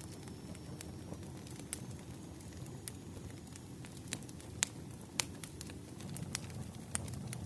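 Wood fire crackling: a steady low rush of burning with scattered sharp pops, two of them louder a little past the middle.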